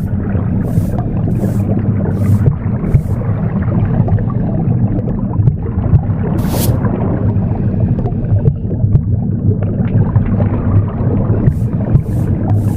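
A steady, loud low whooshing rumble of a womb sound, mixed with short bristly sweeps of a broom. There are four sweeps in quick succession in the first three seconds, a single sweep in the middle, and three more near the end.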